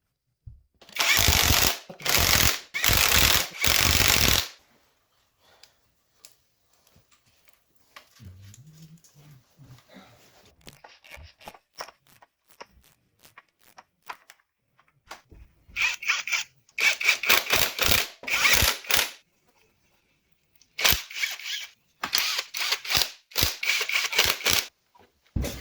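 Power tool run in short, rattling bursts, as when driving fasteners: four quick bursts at the start, then two more clusters of bursts in the second half, with faint knocks of parts and tools in between.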